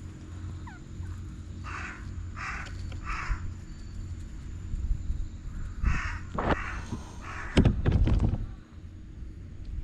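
Three short harsh animal calls in quick succession, then another about six seconds in, followed by a few sharp knocks and bumps.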